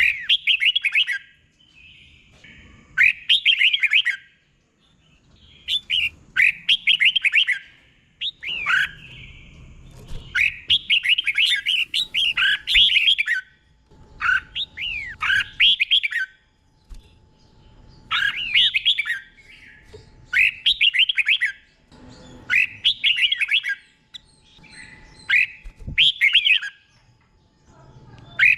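Red-whiskered bulbul singing its short, fast warbled phrases, about one every two to three seconds. This is the doubled 'bernie' song style that keepers play for young bulbuls to copy.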